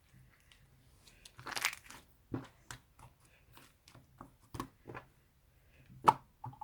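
Slime being squeezed and stretched by hand, giving a string of short crackling pops and clicks, with a longer crackle about one and a half seconds in and a sharp loud pop near the end.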